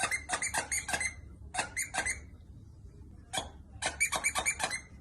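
Squeaky toy squeezed over and over, giving short high squeaks in quick runs of about five a second, with pauses between the runs.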